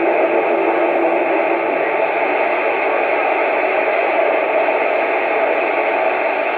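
CB radio receiver hiss: static on an open channel between transmissions. A steady tone is heard over the hiss and stops a little under two seconds in.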